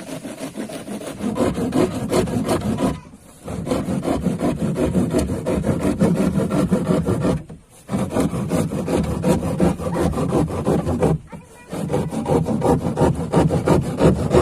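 Hand saw cutting in quick back-and-forth strokes, in four runs separated by short pauses.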